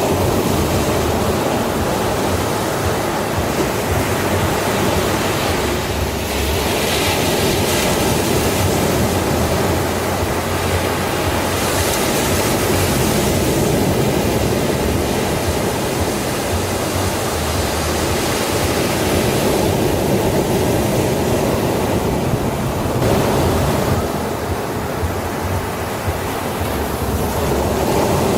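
Sea waves breaking and washing on a beach as a continuous roar of surf, swelling and easing every several seconds, with wind buffeting the microphone.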